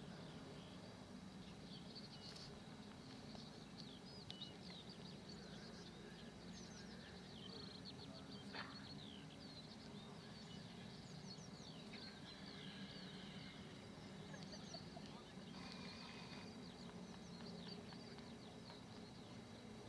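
Faint birdsong: small birds chirping and twittering throughout, with quick high calls over a low steady hum.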